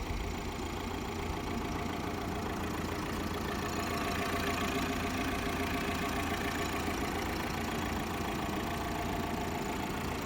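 Tata Safari's 2.0-litre Kryotec diesel engine idling steadily.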